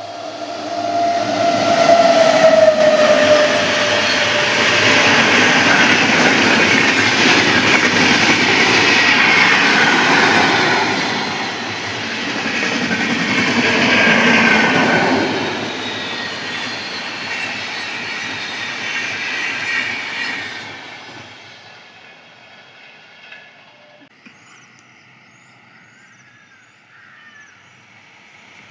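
A train running by: loud rumble and rattle of wheels and cars with a falling squeal in the first few seconds, easing and then fading away about three quarters of the way through.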